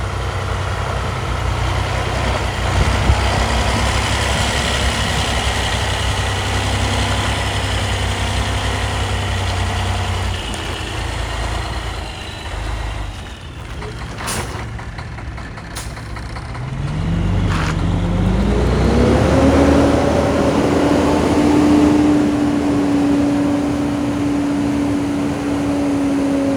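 Diesel engine of a 2005 Freightliner road tractor idling steadily, with a few sharp clicks in a quieter stretch midway. Then the engine speed climbs over a couple of seconds and holds at a higher, steady pitch.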